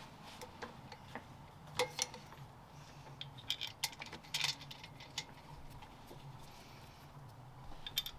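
Irregular light metallic clicks and clinks of hand tools and small engine parts being handled, over a faint low steady hum.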